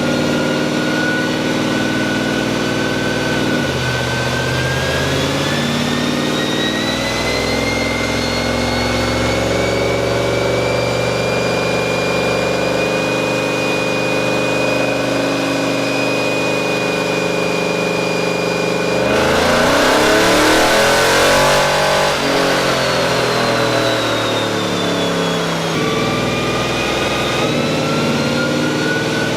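Dodge Durango's 5.7 L Hemi V8 with long-tube headers running on a chassis dyno during tuning, with a high whine that rises slowly as speed builds. About 19 seconds in it gets louder and rougher for a few seconds under more throttle, then eases off and starts climbing again near the end.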